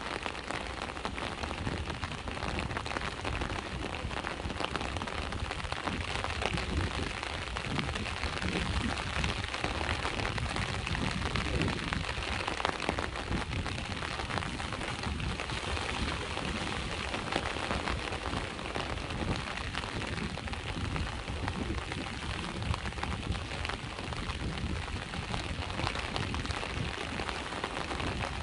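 Steady rain falling, mixed with sea waves washing against the shore as an uneven low rumble.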